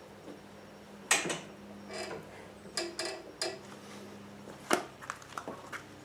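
Light clicks and knocks from hands working a bungee cord and the bagger's plastic lower chute into place: a few separate sharp clacks, the loudest about a second in and near five seconds, over soft handling rustle.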